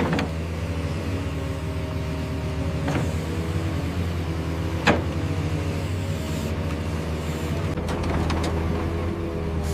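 Steady motor hum with a few sharp clicks or knocks, about three and five seconds in and again near the end.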